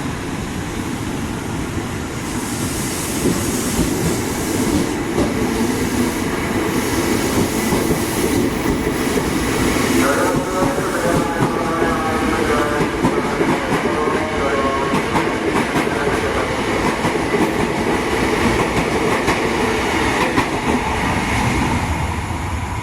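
Train running past close by, its wheels clattering steadily over the rail joints.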